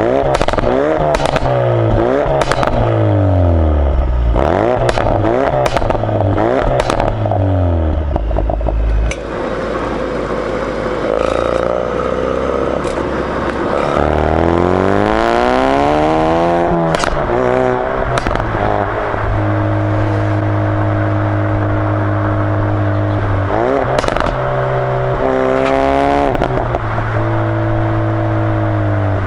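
Exhaust of a 2016 Ford Focus RS Mk3's turbocharged 2.3-litre four-cylinder in sport mode, heard from close behind the car. For the first nine seconds the engine revs up and down several times, with sharp pops and crackles. About fourteen seconds in it pulls up through the revs in one long rise with a pop as it comes off, then runs steadily, with a couple of shorter rises in pitch.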